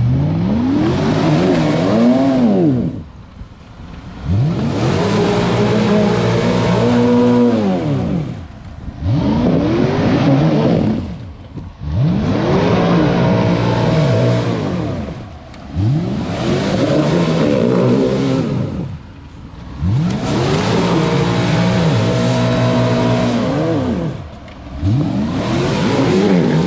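UAZ off-road vehicle's engine revved hard about seven times in a row, each run rising in pitch and falling back, with short pauses between. This is the stuck vehicle being rocked back and forth with its wheels spinning to break free.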